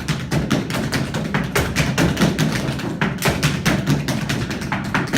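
Tap dancing: a fast, dense run of sharp metal-tipped taps and heavier stamps on a hard floor, several strikes a second without a break.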